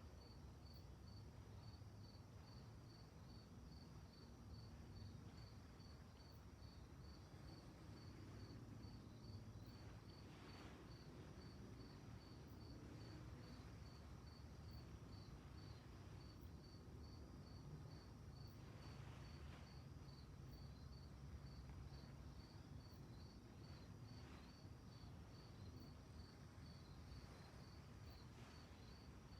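Crickets chirping in a steady, even rhythm of about two to three high chirps a second, faint, over a low steady rumble.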